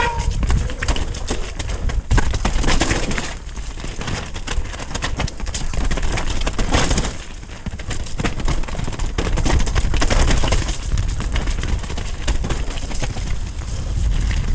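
Heavy wind rush on the camera's microphone while a full-suspension mountain bike runs down a rough trail, with a constant rattle and many small knocks from the bike over the bumps. The noise swells and eases every few seconds and cuts off suddenly at the end.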